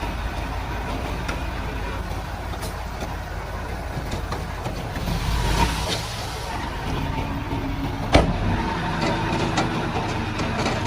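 Crawler bulldozer's diesel engine running steadily, swelling louder for a moment about five seconds in, with a single sharp knock about eight seconds in.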